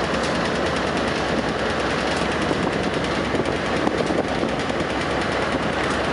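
Container wagons of a freight train rolling past, a steady, rapid rattle and clatter of steel wheels on the rails.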